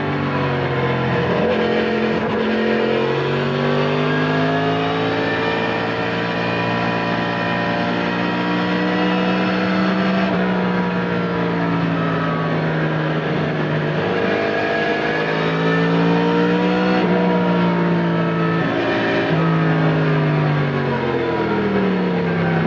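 Yamaha MT-10 SP's crossplane inline-four engine through an Akrapovic titanium slip-on exhaust, heard on board while riding. The pitch climbs and then drops several times as the rider works the throttle and shifts gears, over a steady rush of wind and road noise.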